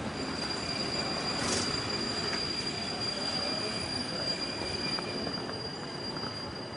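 A steady high-pitched metallic squeal held for several seconds, with fainter higher and lower tones, over a low city rumble, with a short hiss about one and a half seconds in.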